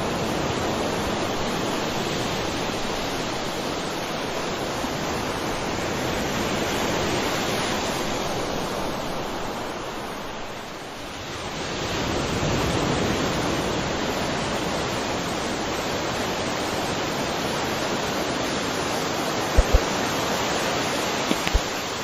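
Sea waves washing in a steady rush of surf that ebbs away about ten seconds in and swells again as the next wave comes in. A few short knocks sound near the end.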